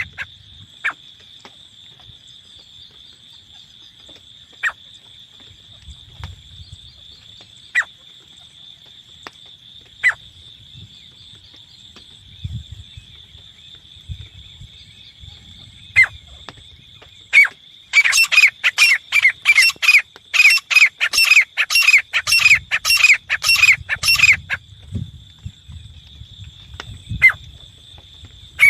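Teetar (grey francolin) calling: single sharp, falling calls every few seconds, then a fast run of loud repeated calls for about six seconds after the middle, and one last call near the end. A steady high-pitched drone runs underneath.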